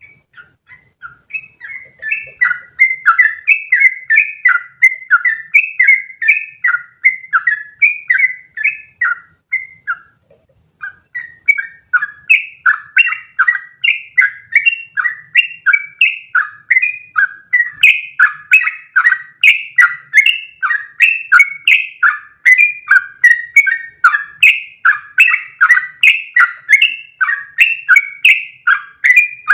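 Yellow-vented bulbul (trucukan) singing a long, rapid run of short, bubbly notes, about three a second. The run breaks off briefly about ten seconds in, then resumes and grows louder.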